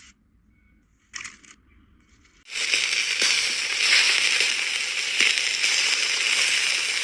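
Meat sizzling loudly on high heat, a dense crackling hiss that sets in suddenly about two and a half seconds in and keeps on. A brief noise about a second in comes before it.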